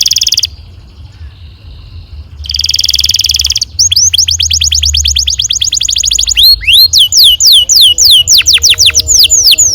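Domestic canary singing: a very fast buzzy roll, then a second one a couple of seconds later. From about four seconds in, the song turns to quick runs of downward-slurred whistled notes, about ten a second, which become slower and wider sweeps in the second half.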